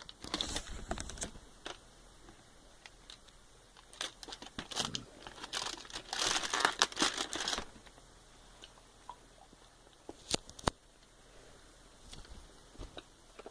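Crinkly packaging being handled and torn, rustling in irregular bursts that are loudest in the middle, with two sharp clicks later on.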